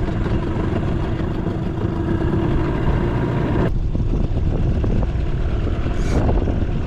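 Strong wind buffeting the microphone on a fishing boat, a constant low rumble, with a steady motor hum under it for the first three and a half seconds or so, which then stops abruptly.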